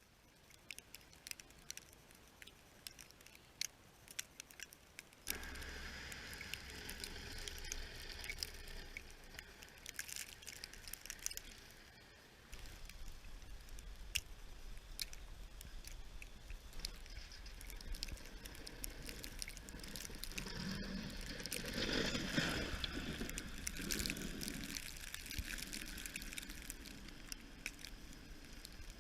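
Faint outdoor ambience in a snowstorm: scattered soft ticks over a low steady rumble that sets in about five seconds in, swelling louder about two thirds of the way through.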